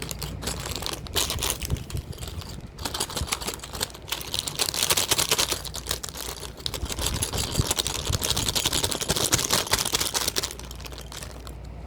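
Small plastic toy pieces and packaging being handled: a dense, irregular run of clicking and crinkling, busiest in the middle and easing off near the end.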